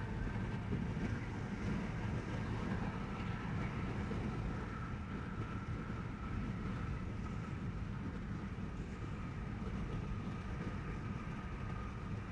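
Steady road noise from a car driving on a toll road: a low rumble of tyres and engine, with a faint steady whine above it.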